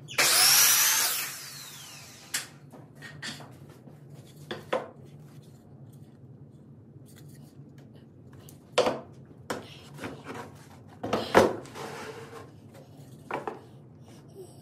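A power drill runs briefly, for about a second and a half at the start. Scattered knocks and clicks follow as tools and parts are handled.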